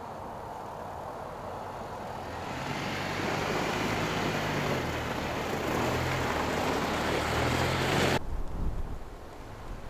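A car driving, its engine and tyre noise swelling louder over a few seconds, then cutting off suddenly about eight seconds in.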